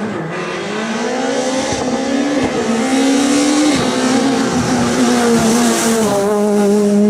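Rally car engine pulling hard in a low gear, its pitch climbing for nearly four seconds. Then a short drop in revs, as at a gear change, after which it runs at a fairly steady pitch.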